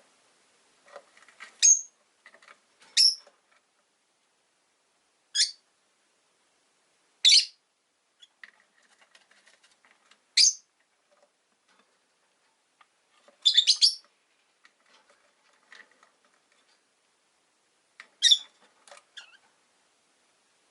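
Rosy-faced lovebirds chirping: sharp, high-pitched single calls every two or three seconds, about seven in all, with fainter twittering between them.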